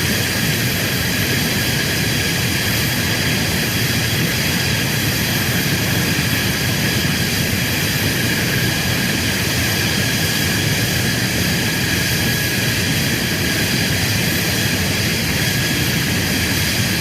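Jet engine running steadily: a constant rush of noise with high whining tones on top, unchanging in pitch and loudness.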